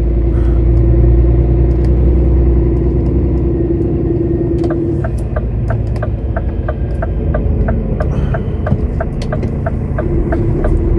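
Truck's diesel engine running slowly, heard from inside the cab as a steady low rumble with a hum. About halfway through, a regular ticking starts, about three ticks a second.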